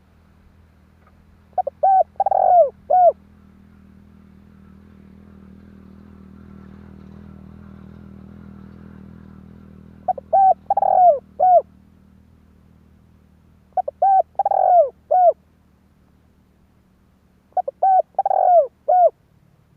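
Spotted dove cooing: four phrases of four or five short, falling coos each, a few seconds apart. A faint low rumble swells and fades in the long gap between the first two phrases.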